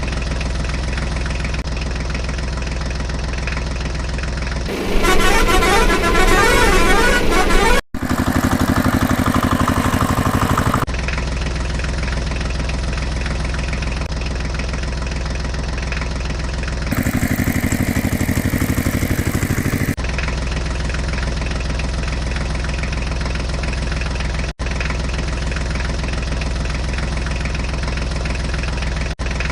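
A heavy vehicle engine runs steadily, with a vehicle horn honking over it in three stretches of a few seconds each. The sound cuts out abruptly for an instant a few times.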